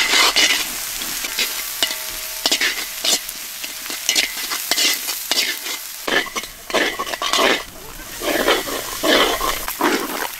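Metal spatula scraping and stirring in a large iron wok, with onions and spice paste sizzling in hot oil.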